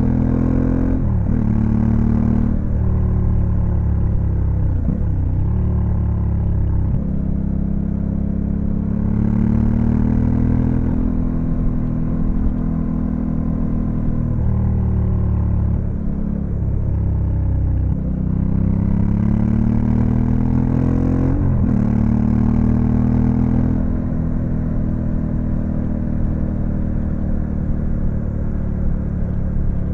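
Honda Africa Twin CRF1100L's 1084 cc parallel-twin engine under way, its pitch rising under acceleration and dropping at each gear change several times. There are a couple of quick dip-and-rise swings in engine note around 5 seconds and about 21 seconds in.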